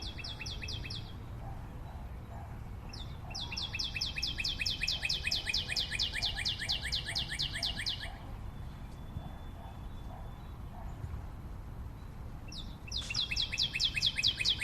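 A bird calling in long runs of quick, high, sharp notes, about six a second, each run lasting several seconds with pauses between, over a faint low background rumble.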